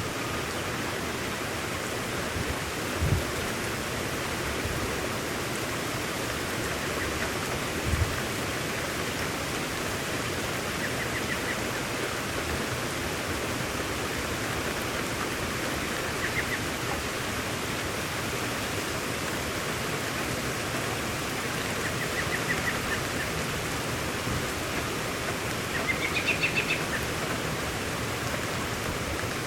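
Steady rain falling, an even hiss throughout. A few short bird chirps come through it now and then, the longest, rising, near the end, and there are two brief low thumps early on.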